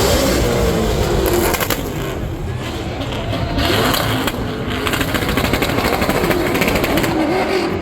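Drift car engines revving on the track, the pitch sweeping up and down again and again over a steady wash of noise.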